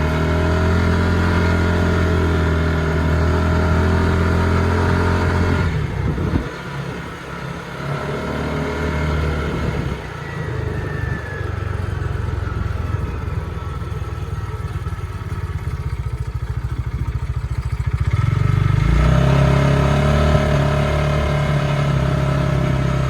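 Bighorn Explorer UTV's engine running under way at a steady pitch, then dropping off abruptly about six seconds in. It runs lower and uneven for a stretch before picking back up to a steady note near the end. The owner describes the way it runs as a hesitation and a little sputter.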